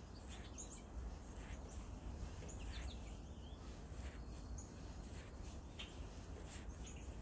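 Small songbirds chirping faintly: scattered short, high chirps every second or so over a low, steady background rumble.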